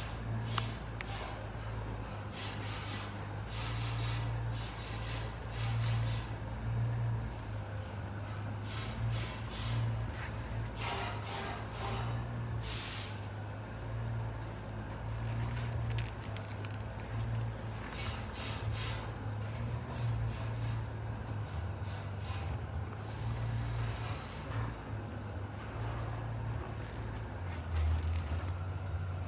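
Suzuki TL1000S's 996 cc 90-degree V-twin running at idle, with repeated short, sharp hissing bursts over the engine note.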